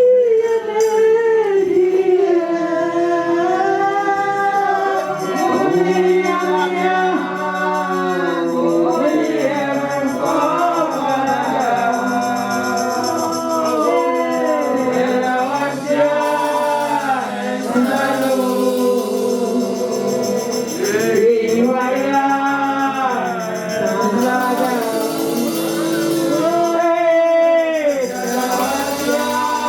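Gospel worship song: voices singing long, held, sliding notes over steady instrumental backing.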